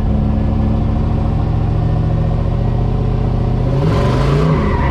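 Drift truck's engine running under steady throttle, the pitch sagging slightly, then revving up sharply nearly four seconds in with a short rush of noise alongside.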